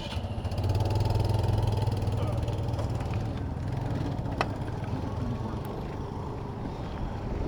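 A motor vehicle's engine running close by in street traffic. It is loudest in the first couple of seconds and then eases off, with one sharp click about four and a half seconds in.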